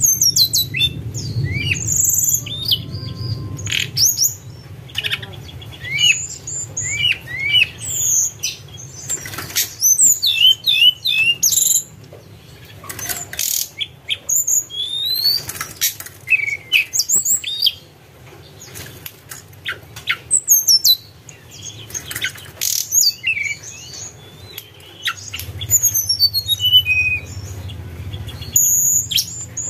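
A tledekan gunung bird singing a varied string of short whistled, flute-like notes, quick rising and falling chirps and sharp clicks, with brief pauses between phrases. A low hum sits underneath at the start and again near the end.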